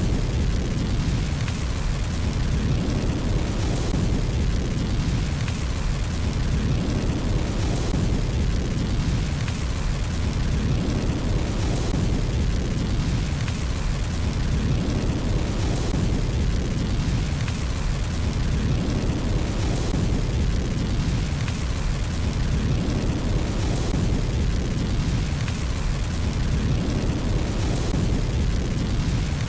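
Wood fire burning in a fireplace: a steady low rumble of flames with bursts of high crackle every few seconds.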